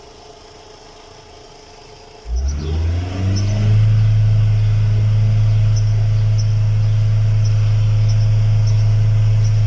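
VW Gol 1.6 four-cylinder engine, running on all cylinders after an ignition coil replacement, is revved: a sudden rise from the quieter idle about two seconds in, climbing in pitch for about a second and a half, then held as a loud, steady drone at raised revs.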